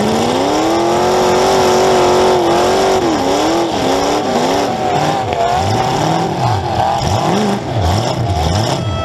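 Demolition derby car's engine heard from inside the car, revving up hard over the first second or so and held at high revs. About three seconds in it starts to waver, then drops to lower revs that rise and fall quickly again and again as the car is driven back and forth.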